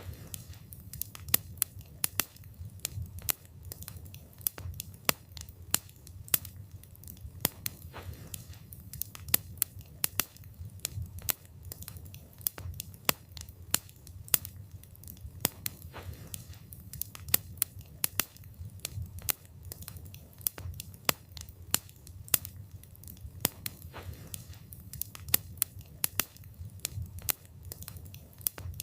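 Wood fire burning with a low rumble of flames and frequent sharp crackles and pops from the burning wood, several a second at irregular intervals.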